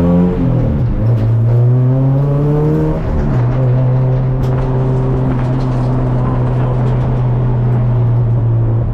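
Honda K24 four-cylinder engine in an EK Civic pulling through the gears: the revs drop sharply just after the start, climb steadily, drop again about three seconds in at the next shift, then hold a steady pitch.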